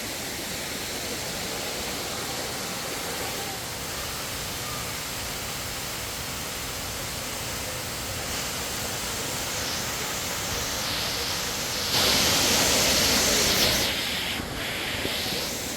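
Waterfall rushing as a steady hiss of falling water, with a louder, brighter surge lasting under two seconds near the end.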